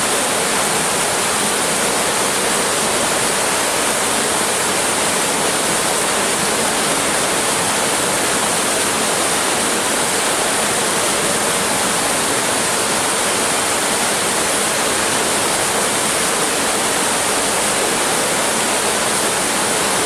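Tropik clear acrylic pool waterfall running, water pouring down in a steady, unbroken rush.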